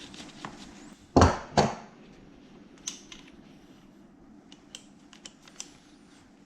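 Two sharp knocks about a second in, a metal tool or strap fitting handled against a work surface, followed by scattered light clicks of small hardware being worked.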